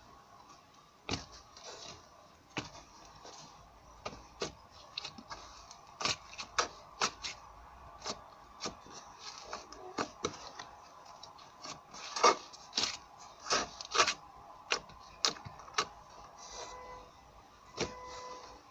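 Soft slime being squeezed and worked by hand, giving irregular sharp clicks and pops, more frequent in the middle stretch.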